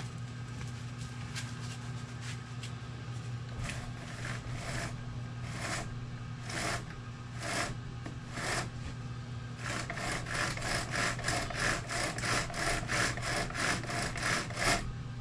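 Rasping strokes of hand work on a freshly reassembled chainsaw, about one a second at first, then quickening to about three a second for the last five seconds, over a steady low hum.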